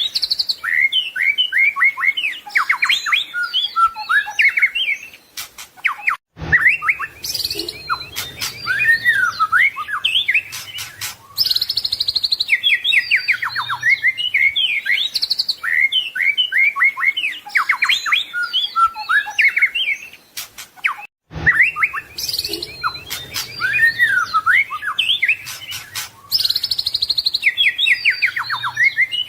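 White-rumped shama (murai batu) singing a fast, varied song of whistles, chirps, trills and harsh notes packed with learned phrases. The song breaks off briefly about 6 seconds in and again about 21 seconds in, each time starting over with the same passage as a repeating loop.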